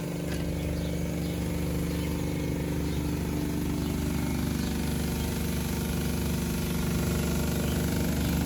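Toyota Corolla GLI engine running steadily at an even speed.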